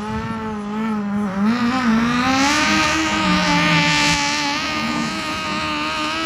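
Engine of a modified garden tractor puller running at high revs, its pitch wavering at first, then climbing about two seconds in and holding high.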